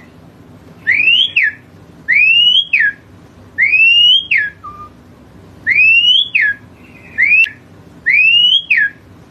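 Asian pied starling (jalak suren) whistling a repeated call: six loud, clear notes, each rising in pitch and then dropping sharply, about one a second.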